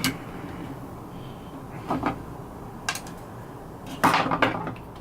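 Small parts and hand tools being handled on a workbench during a cordless drill repair: a knock about two seconds in, a sharp click a second later, and a louder burst of clattering near the end.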